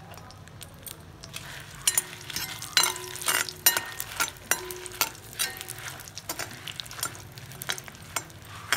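Dried red chillies frying in hot oil, sizzling as they are stirred in the pan. From about a second and a half in, the spoon scrapes and knocks against the pan over and over.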